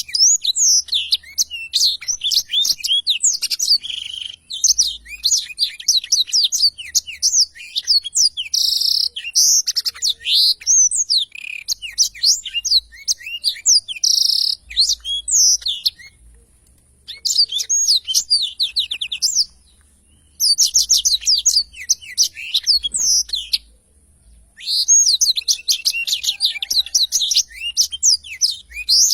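Black-throated canary (blackthroat) singing a long rolling song: rapid runs of high, sweeping notes in long phrases, broken by a few brief pauses.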